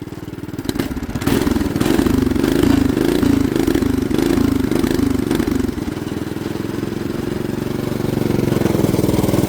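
Small single-cylinder 212 engine on a bike, running rough and unhappy: it is revved up about a second in with an uneven, wavering note, then settles to a steadier, lower idle at about six seconds.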